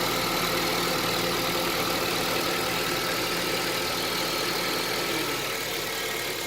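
2010 Honda CR-V's 2.4-litre four-cylinder engine idling steadily.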